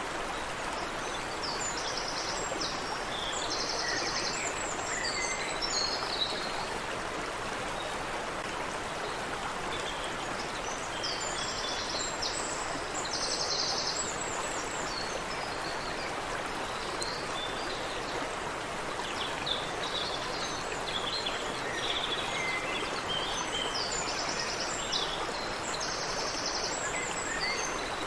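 Steady rush of water running in a stream, with birds singing over it: a short, rapid trill repeated every ten seconds or so among scattered chirps.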